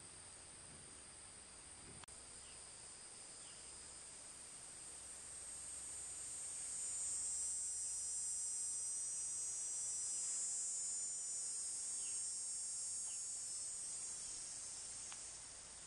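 High-pitched insect buzzing, a steady drone that swells over several seconds and then eases off near the end.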